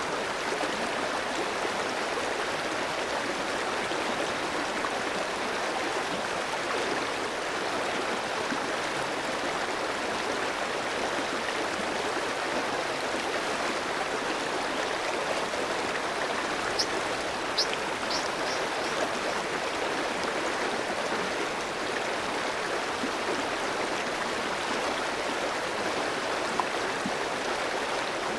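A clear stream flowing steadily, a constant rushing wash of water. A few brief high ticks sound over it a little past halfway.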